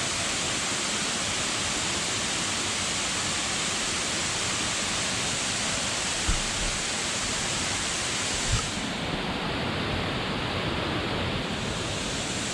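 Waterfall's water rushing steadily, with two brief low thumps about six and eight and a half seconds in.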